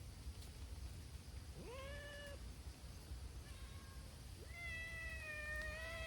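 Community cats meowing: a short meow with a rising start about two seconds in, a faint one after it, then a long drawn-out meow starting near the end.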